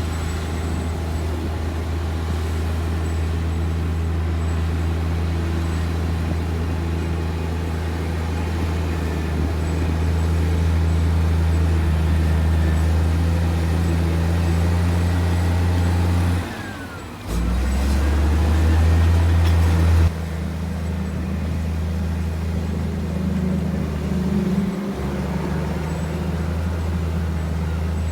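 Heavy diesel engine of earthmoving machinery running steadily with a deep drone. About two-thirds of the way through it briefly drops away, then comes back louder for a few seconds before settling to its earlier level.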